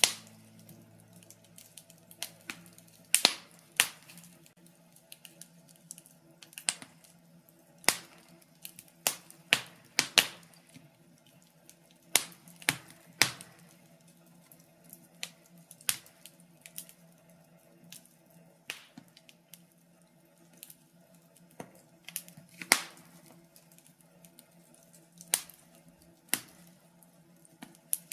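Birch logs burning in a fireplace, crackling with irregular sharp pops and snaps, a few loud ones among many small ticks.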